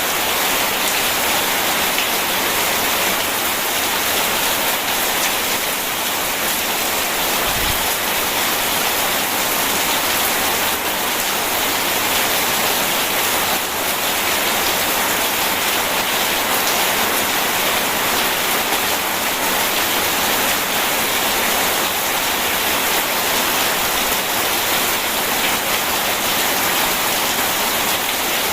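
Steady heavy rain falling, a dense, even hiss.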